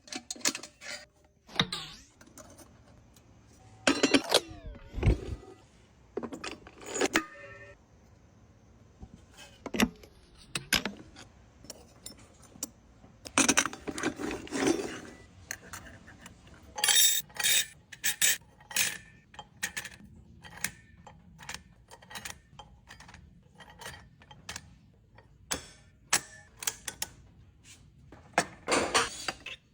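Metal parts of a Chevrolet TH350 three-speed automatic transmission clinking, clicking and knocking as they are handled during a rebuild. The clinks come at irregular spacing, with a few short flurries of rattling.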